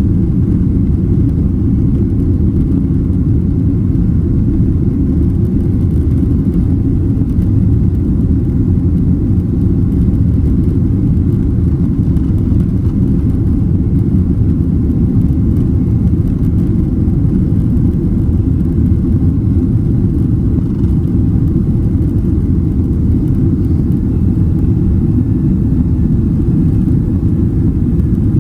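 Cabin noise inside a Boeing 767-300ER: a steady, even low rumble of engines and airflow, with no change in pitch or loudness.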